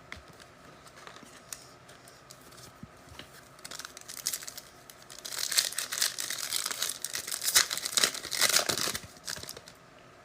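A trading-card pack's wrapper being torn open and crinkled by hand, starting about four seconds in and running for several seconds before it stops near the end.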